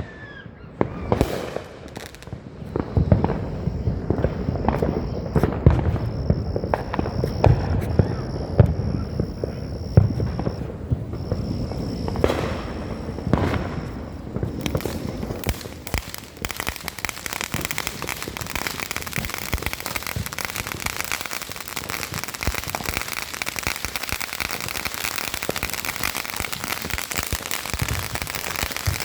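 Consumer fireworks going off. For the first half there are repeated pops and bangs, with a high whistle that comes and goes. After about halfway it turns into a dense, steady crackling.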